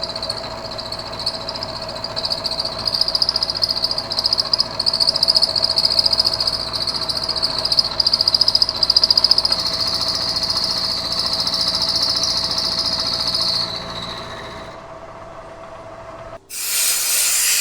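Bridgeport milling machine cutting with a 1/2 inch four-flute end mill, a high whine over the running spindle, taking a side finishing pass on a metal block. The cutting sound stops about 14 seconds in while the spindle runs on. A loud steady hiss starts near the end.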